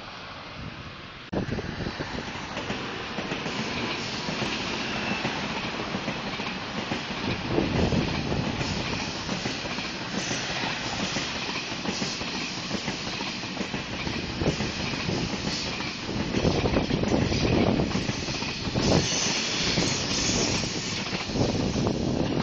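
Trains running along the tracks, with the noise of steel wheels on rail. The sound steps up about a second in and grows loudest in the last few seconds as a KTX high-speed train approaches.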